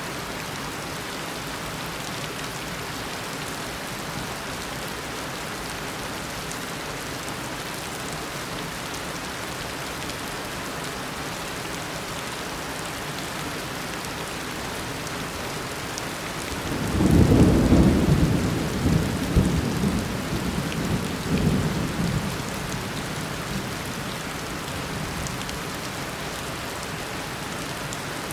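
Steady heavy tropical rain, with a roll of thunder a little past halfway that is loudest at its start and rumbles away over about six seconds.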